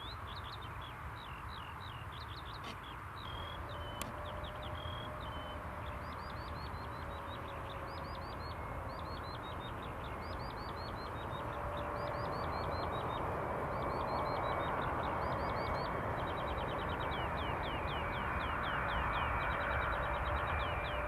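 Birds chirping: repeated runs of quick, high, falling chirps, several a second. Underneath, a steady rushing noise grows louder over the second half.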